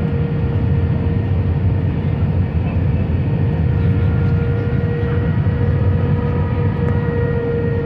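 Airbus airliner heard from inside the cabin: a steady, loud low rumble of jet engines and airflow, with a constant whine running through it.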